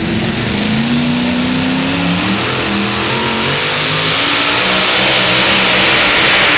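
Pulling truck's engine running at full throttle while dragging the pulling sled, with the engine's pitch wavering and the sound getting steadily louder.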